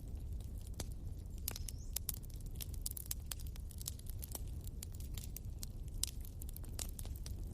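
Wood bonfire crackling: irregular sharp pops and snaps, several a second, over a steady low rumble of the burning fire.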